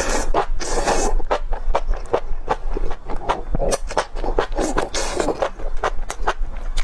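A person eating close to the microphone: chewing and biting, with many short, irregular clicks and smacks.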